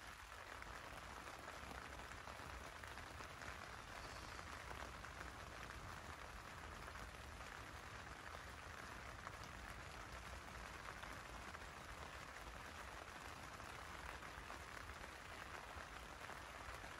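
Rain falling steadily on the roof of a Snow Peak Land Lock tent, heard from inside as a faint, even hiss.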